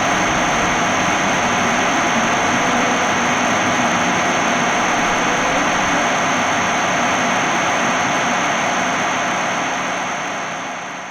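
Harsh noise-drone music: a dense, steady wall of noise with a thin high whistling tone held over it and a low hum beneath, fading out near the end.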